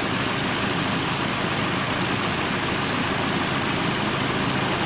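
2013 Hyundai Elantra's four-cylinder engine idling with the AC on and the electric cooling fan running: a steady rush of air over a low engine hum.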